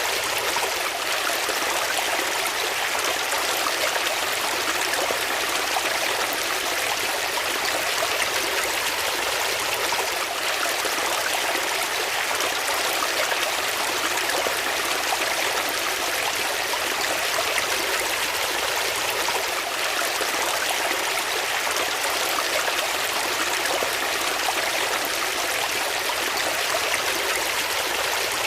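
Water flowing steadily over stones in a stream, an even splashing rush that doesn't change.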